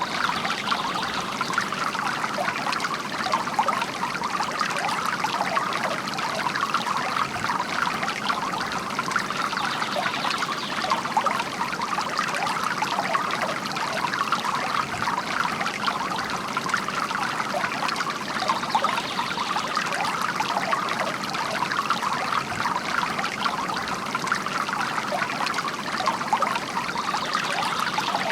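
Water from a bamboo garden fountain pouring and splashing steadily into its basin, an even, unbroken trickle.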